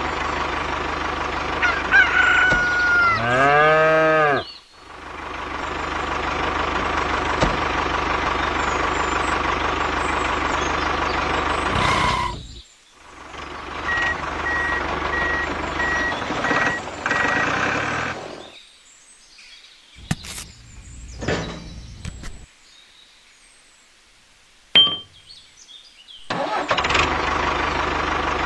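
Tractor engine running steadily, with a rooster crowing about two to four seconds in. A short run of high beeps sounds midway; the engine sound then cuts out for several seconds, with only a few clicks, and starts again near the end.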